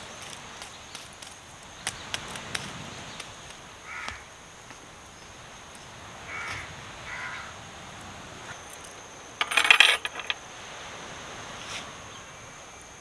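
A crow cawing three short times over a steady outdoor hiss, with scattered light clicks. About ten seconds in comes a brief, dense clatter of knocks, the loudest sound here.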